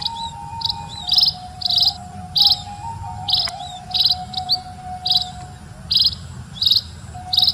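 A slow bamboo saluang flute holds long notes that step gradually down in pitch. Over it, regular high chirps of a nature ambience repeat nearly twice a second.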